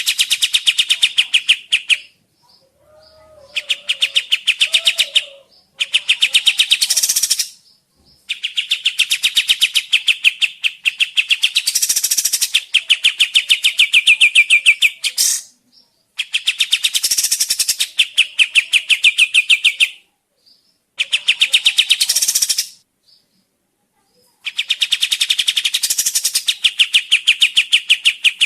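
Kapas tembak songbird singing in loud bouts of very fast, rattling repeated notes, each bout a few seconds long with short pauses between.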